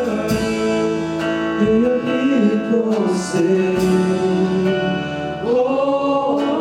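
Church worship band playing a slow song on guitar and sustained chords, with a voice singing drawn-out notes about two seconds in and again near the end.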